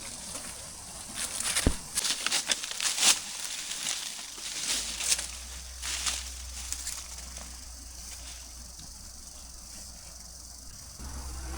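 Short bursts of rustling and scraping, like leaves or ground being disturbed by hand or foot, over the steady hiss of flowing river water; the rustling dies away after about seven seconds, leaving the water hiss.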